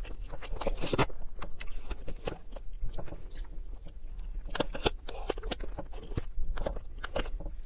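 Close-up chewing and mouth sounds of someone eating vegan chicken and greens, with a plastic fork clicking and scraping against a plastic takeout container. The clicks come irregularly, over a steady low hum.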